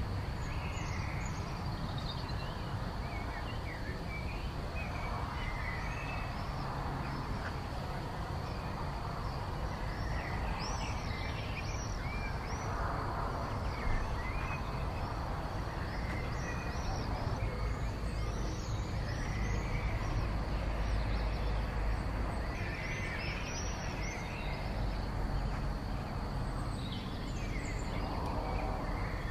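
Mixed wild birdsong from several birds: many short chirps and warbled phrases throughout, over a steady low rumble.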